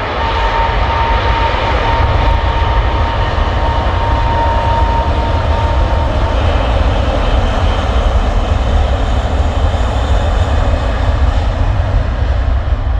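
Emirates Airbus A380's four jet engines at full takeoff thrust: a loud, steady roar with a deep rumble and a high whine that fades out about halfway through.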